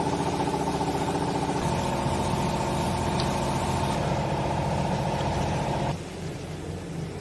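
Hydraulic used-clothes baler's pump running loud under load, with a rapid pulsing hum that shifts in tone about a second and a half in. About six seconds in it drops abruptly to a quieter steady hum as the load comes off.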